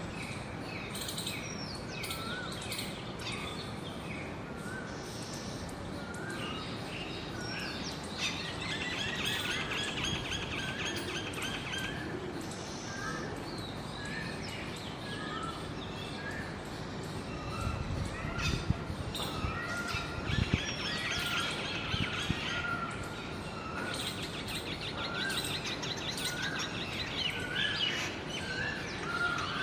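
Several small birds calling and singing: a short rising call repeated about once a second, overlapped by bursts of rapid, high trilling song. A few low thumps come about two-thirds of the way through.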